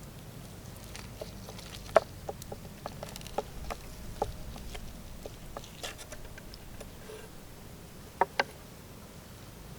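A series of light, irregular clicks and taps over a low hiss, the sharpest about two seconds in and a quick pair near the end.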